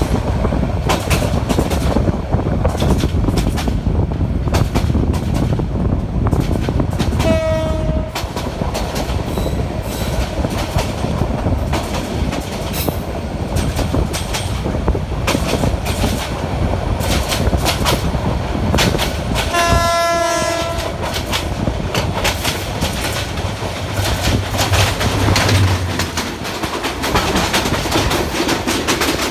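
Passenger train running at speed, heard from the open doorway of a moving coach: a steady rumble with fast clickety-clack from the wheels over the rail joints. A train horn sounds twice, a short blast about 7 seconds in and a longer one about 20 seconds in. Near the end a second passenger train passes close alongside.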